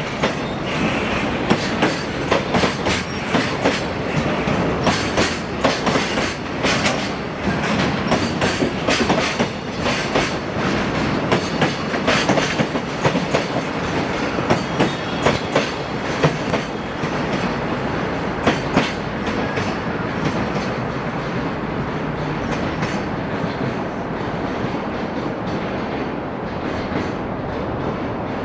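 A train running past on the rails, its wheels clacking over rail joints in quick irregular clicks over a steady rumble; the clicks thin out after about twenty seconds, leaving a steadier rolling noise.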